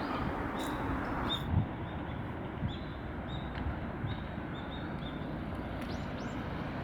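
Outdoor ambience: a steady background hiss with short, high bird chirps repeating every second or so.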